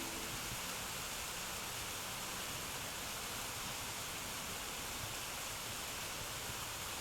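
Waterfall water falling, a steady even rush.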